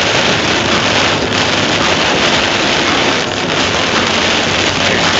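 Heavy rain beating on the windshield and roof of a moving RV, mixed with the hiss of tyres on a flooded highway, heard from inside the cab as a steady, loud rush.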